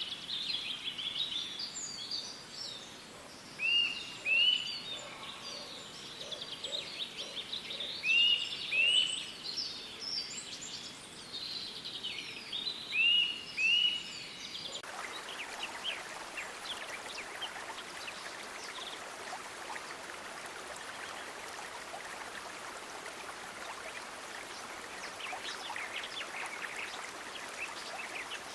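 Songbirds chirping over a soft background, with three loud paired whistled calls standing out, each pair a second or so apart. About halfway through the birds cut off suddenly and are replaced by steady running water.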